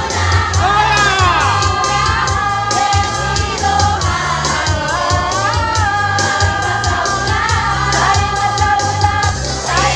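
A choir singing with musical accompaniment that has a steady bass beat and regular high percussion ticks.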